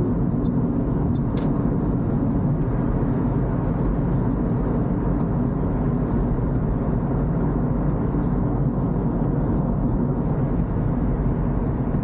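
Toyota Corolla driving on a wet road: a steady hum of engine and tyre noise with no change in pace.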